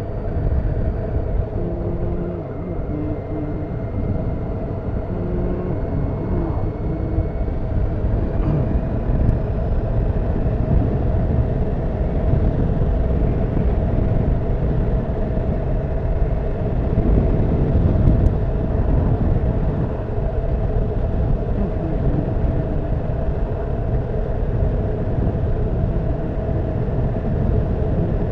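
Honda CBF motorcycle riding along, its engine running at a steady note under heavy wind rush on the camera's microphone.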